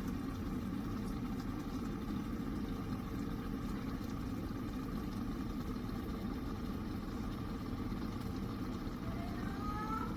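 OVENTE KG83B glass electric kettle boiling: a steady rumble of water at a rolling boil, with a few faint rising tones near the end.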